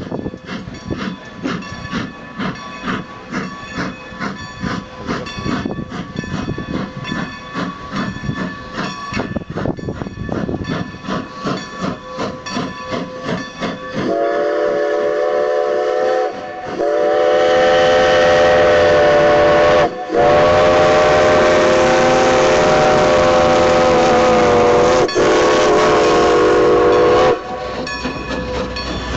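Strasburg Rail Road No. 90, a 2-10-0 decapod steam locomotive, working with rhythmic exhaust chuffs at about two a second, then sounding its chime steam whistle in several long blasts with brief breaks, about halfway in until near the end.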